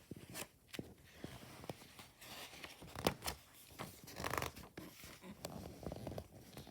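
Pages of a picture book being handled and turned: paper rustling, with a few short swishes and sharp crinkles.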